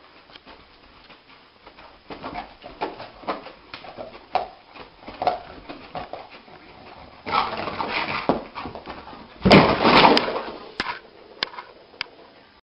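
A dog making short, irregular sounds, with two louder stretches: one about two-thirds of the way in and the loudest about three-quarters through.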